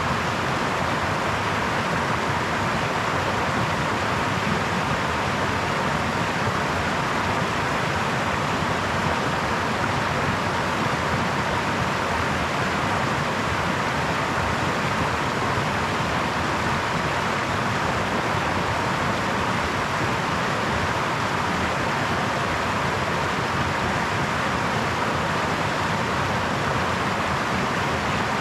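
Small brook flowing: a steady, even rush of running water that does not change.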